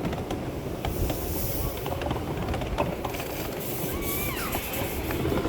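Train rolling along the track: a steady low rumble with scattered clicks of the wheels.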